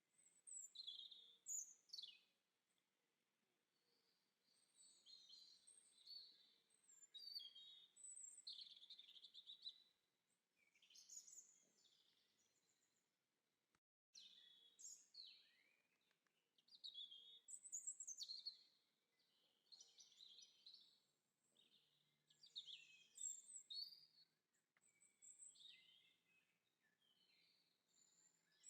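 Small songbirds chirping and twittering: faint, quick, high calls and short trills one after another, with a momentary break about halfway.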